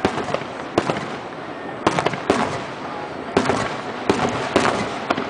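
Fireworks finale: aerial shells bursting in quick succession, with about seven sharp bangs in five seconds over a continuous crackling.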